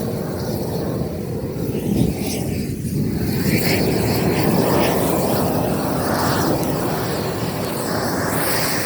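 Weed-burning blowtorch running with a steady rushing flame noise, swelling louder for a few seconds in the middle.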